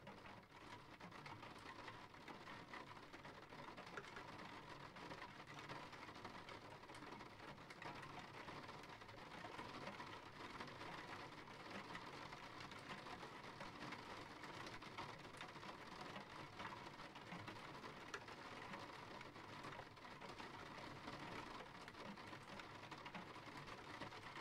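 Steady rain falling: a faint, even hiss with many small drop ticks.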